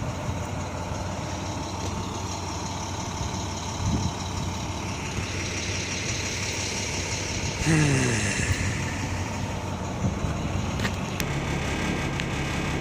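International 4300 truck's diesel engine idling steadily. About eight seconds in, a brief louder sound falls quickly in pitch.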